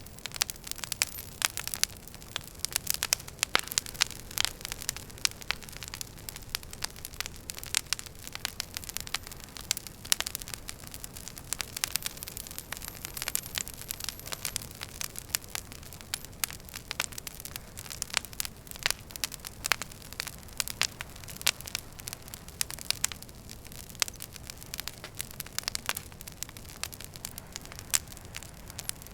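Wood fire crackling in a fireplace: frequent irregular sharp pops and snaps over a steady low rush of the flames.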